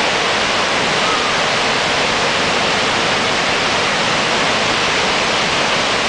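Heavy rain pouring down, a steady loud hiss with no breaks.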